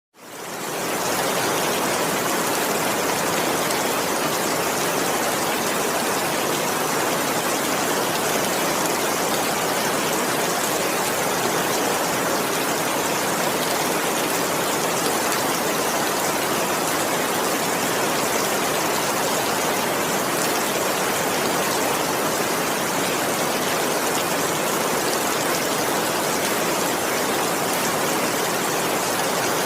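Heavy rain falling steadily, a dense even hiss with no thunder. It fades in over the first second.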